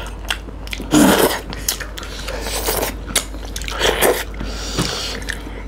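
Close-miked eating sounds: biting and chewing fried fish and curried rice, in several short bursts.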